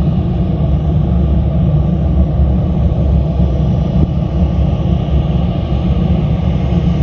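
Jet airliner engines at takeoff power, a steady loud low rumble with no break.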